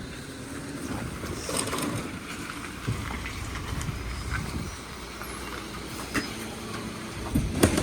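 A low, steady vehicle engine rumble with scattered light clicks and knocks, and a couple of faint bird chirps.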